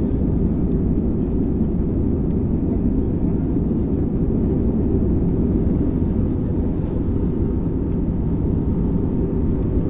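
Steady cabin noise of a passenger airliner in flight: an even, low-pitched mix of engine and airflow noise.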